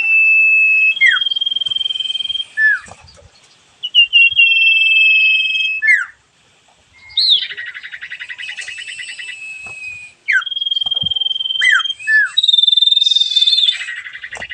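A sirpu songbird singing steadily: long held whistled notes broken by fast buzzy trills and several quick downward-sliding notes, with a brief pause about six seconds in.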